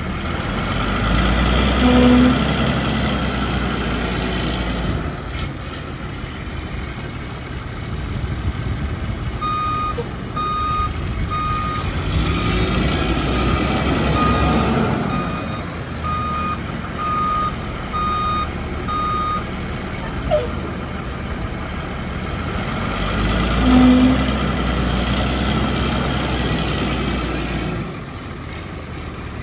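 Capacity TJ5000 yard truck's Cummins diesel running, getting louder three times as it pulls under load. For about ten seconds in the middle, its backup alarm beeps about once a second while it reverses.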